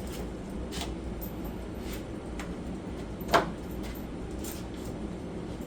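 A single sharp knock with a brief ring a little past the middle, among a few faint clicks, over a steady low hum.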